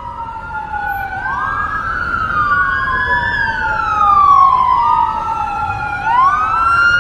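Two police sirens wailing at once, each rising and falling slowly over a few seconds, out of step with each other so their pitches cross.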